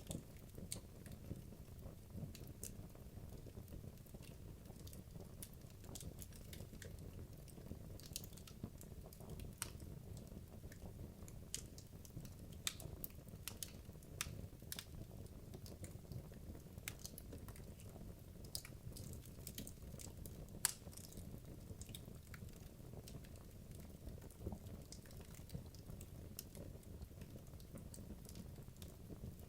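Wood logs burning in a fireplace: a low, steady rumble of flame with frequent, irregular soft crackles and pops, one sharper snap about two-thirds of the way through.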